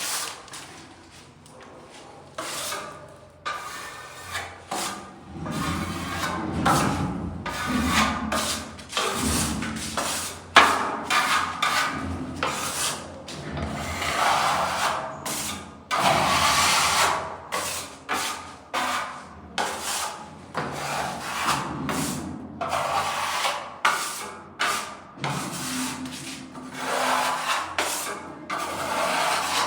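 Repeated hand rubbing strokes across a surface, uneven in rhythm and each lasting under a second, starting after a quieter few seconds: surface preparation in paint repair work.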